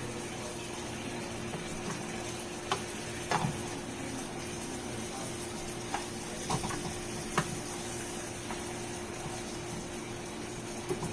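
Chunks of seasoned chicken breast sizzling in hot oil in a pan, a steady frying hiss. A few light clicks come as a utensil stirs the pieces against the pan.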